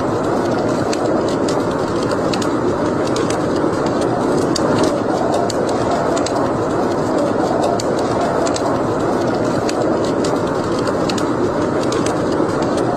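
Wood fire burning in a fireplace: a steady rushing of flames with frequent small, sharp crackles and pops scattered throughout.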